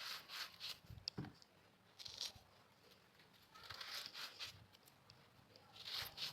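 Crunchy, crumbly pressed-powder block being crushed: short crackling crunches in about five groups a second or two apart, with a sharp click about a second in.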